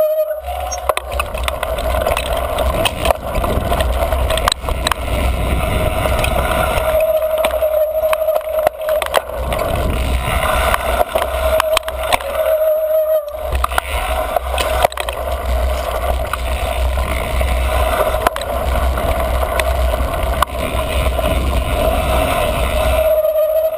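Niner MCR mountain bike riding singletrack: a steady rumble of wind on the camera and tyres on dirt, with rattles from the bike over bumps. A few times, as the rumble drops off, a steady squeal rings out from the squealy front disc brake as the rider slows, around 7 to 9 seconds in, again around 12 seconds, and near the end.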